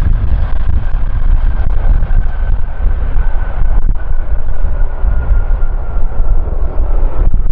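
Jet airliner's engines during the landing rollout, a steady whine slowly falling in pitch, over a heavy low rumble of strong wind buffeting the microphone.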